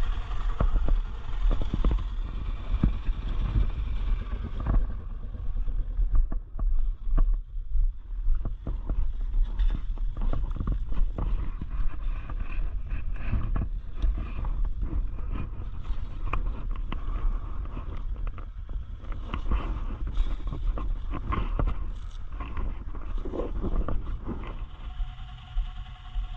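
Honda Tornado 250 single-cylinder four-stroke motorcycle running on a ride over a rural dirt road, with heavy wind rumble on the helmet camera's microphone and frequent small knocks and rattles from the rough surface.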